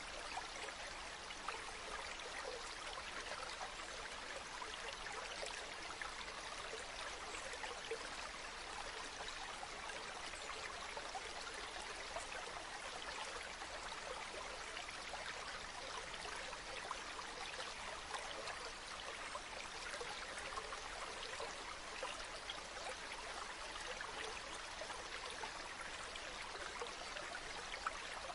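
Steady running water, an even, unbroken rush with fine trickling detail.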